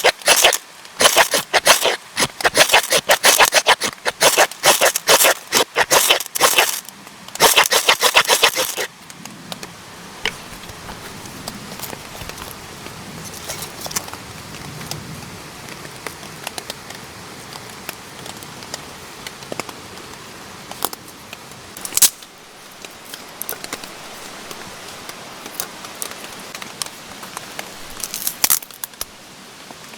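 Loud, rapid crinkling and rustling handling noise for about the first nine seconds, then quieter scattered clicks and scrapes.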